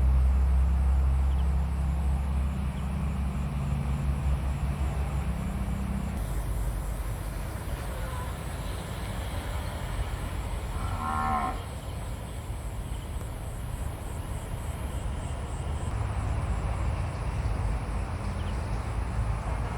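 An animal calling: a long, low drawn-out call in the first six seconds and one short higher call about eleven seconds in, over a steady low rumble.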